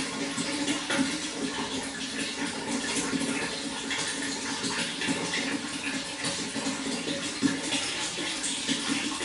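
Running water, a steady splashing rush that goes on without a break.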